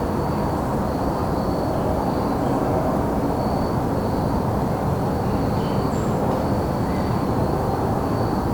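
Evening woodland ambience under a steady low rumble. Crickets chirp in a faint, pulsing high trill throughout, and a few brief, faint bird chirps come in, one high one about six seconds in.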